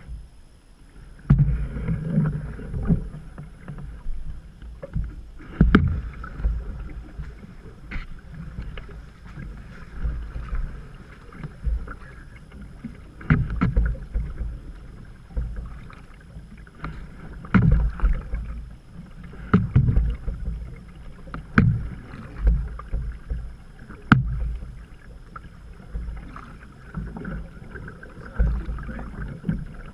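Canoe being paddled: irregular knocks and thumps of the paddle and hull every second or few, over a steady rush of creek water.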